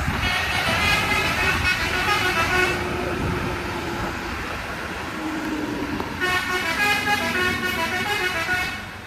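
A vehicle horn sounds in two long blasts of about three seconds each, the first at the start and the second from about six seconds in. Under it runs a steady engine and road rumble.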